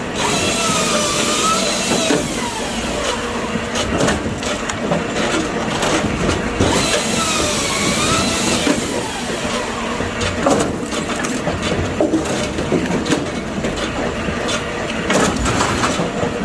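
Machinery running while pieces of split oak firewood knock and clatter constantly. Twice, near the start and again about seven seconds in, a wavering whine rises and falls for about two seconds.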